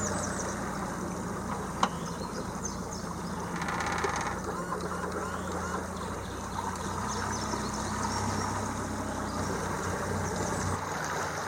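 Outboard motor of a small aluminium boat running at a steady idle, a low even hum.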